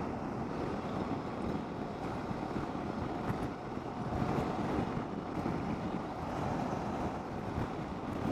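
Honda Transalp XL750 parallel-twin engine running steadily at riding speed, with wind noise rushing over the rider's microphone.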